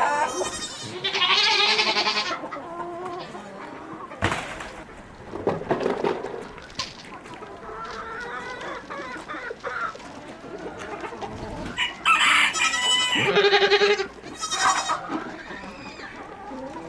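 Chickens clucking, with a rooster crowing. The loudest calls come in the first couple of seconds and again about twelve to fifteen seconds in, with quieter clucking between.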